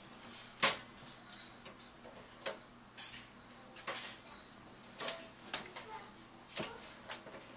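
Dishes and a dishwasher rack being handled: irregular clicks and light clinks at uneven spacing.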